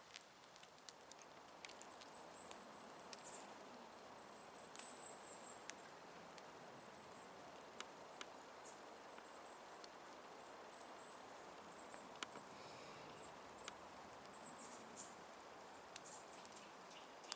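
Faint campfire crackling: sparse, irregular sharp pops and snaps over a low steady hiss.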